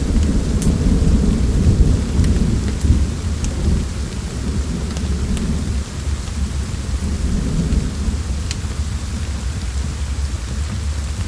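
Thunder rumbling low over steady rain, loudest in the first few seconds and then easing off, with a few sharp crackles scattered through it.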